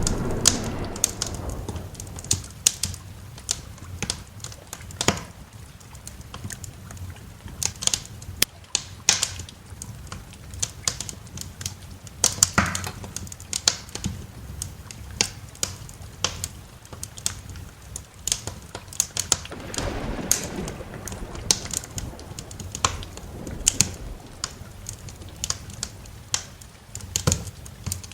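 Wood fire crackling, with irregular sharp snaps and pops. Low rumbles of thunder swell at the start and again about twenty seconds in.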